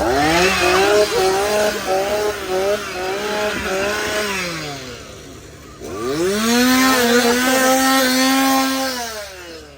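A small engine revved up hard twice. Each time the pitch climbs quickly, holds high with a slight wobble for a few seconds, then winds back down.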